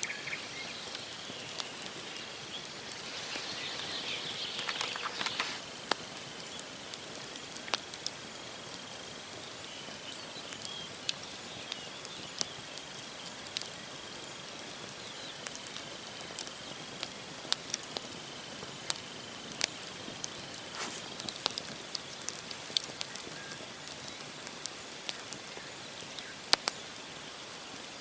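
Wood fire of burning logs crackling, with sharp irregular pops and snaps throughout. A thin, faint high whistle runs through much of it and stops about three quarters of the way in.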